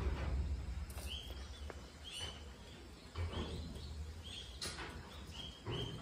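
A bird giving short, repeated chirps about once a second, over a low rumble and a few brief rustling noises.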